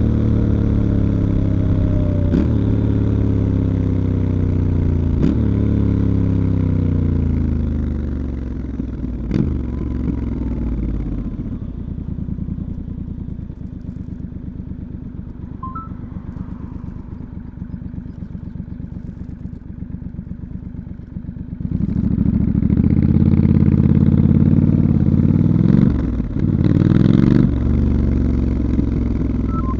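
Stock 2019 Triumph Scrambler 1200 XE's 1200 cc parallel-twin engine heard onboard: it slows with the revs falling over several seconds and settles to a quieter low steady run for about ten seconds. It then opens up and accelerates hard, the revs climbing, with a brief drop near the end for a gear change.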